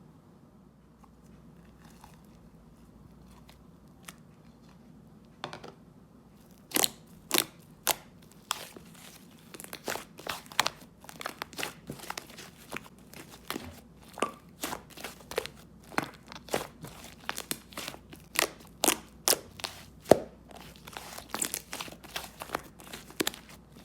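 Pale-pink clay-mixed slime being worked by hand, giving sharp, irregular popping clicks, one or two a second. The clicks start about five seconds in, after a quiet start.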